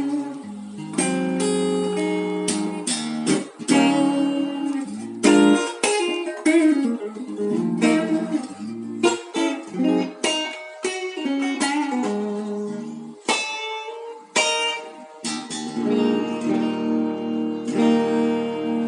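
Telecaster-style electric guitar with G&B pickups played for a sound check: a run of strummed chords and picked single notes, each ringing on, with short pauses between phrases.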